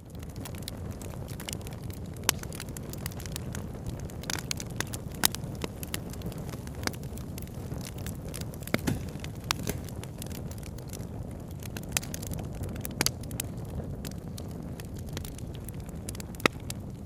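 Campfire crackling, with sharp irregular pops and snaps over a steady low rush from the burning fire and the flowing river.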